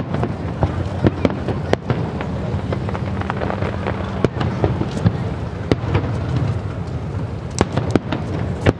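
Aerial firework shells bursting, many sharp bangs and crackles at irregular intervals with a few louder reports among them, over a steady low rumble.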